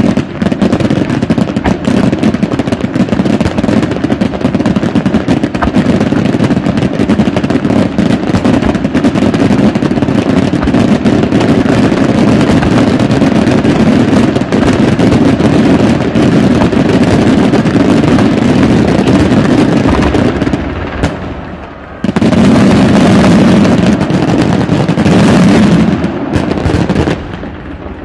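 Fireworks display: a dense, continuous barrage of aerial shell bursts and crackling. It dies down briefly about twenty seconds in, resumes at full strength, and thins out again near the end.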